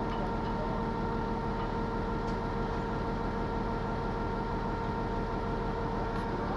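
A machine running steadily: an even hum with a constant whine, unchanging throughout, with a few faint ticks.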